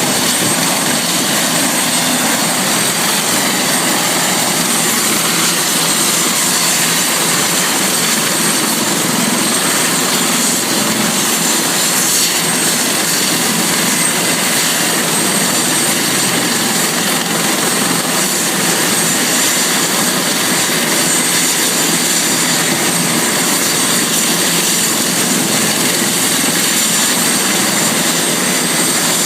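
Helicopter engine and rotor noise, a steady dense rush with a thin high whine on top.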